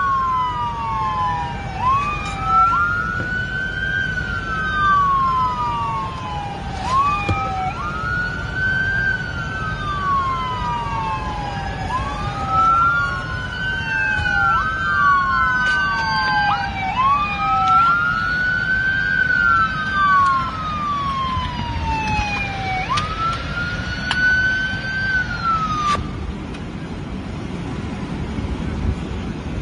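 Emergency vehicle siren on a slow wail: each cycle rises, holds briefly, then falls, repeating about every four to five seconds, with two wails at times overlapping. It stops about 26 seconds in, over a steady low rumble of road traffic.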